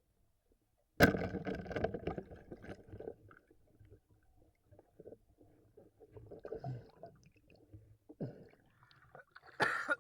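Water splashing and gurgling in irregular bursts, the loudest starting suddenly about a second in and lasting about two seconds, with smaller sounds after it and another burst near the end.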